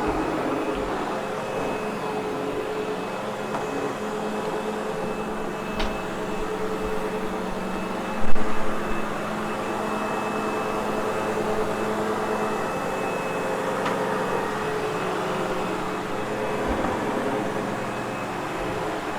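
Sebo X8 upright vacuum running steadily over carpet, a constant motor hum with a steady whine. A short loud thump about eight seconds in.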